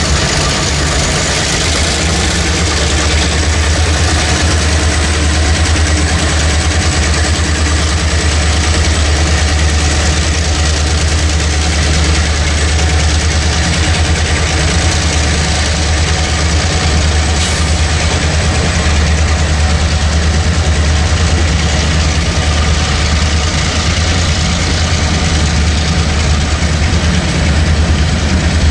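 A freight train passing close by: the last of its diesel locomotives goes by at the start, then covered hopper cars roll past with a loud, steady rumble of wheels on the rails.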